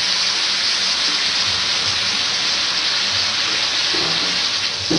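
Pork tongue pieces sizzling in a hot aluminium wok as Sprite is poured over them from a glass, a steady loud hiss of liquid hitting hot metal. A single knock near the end.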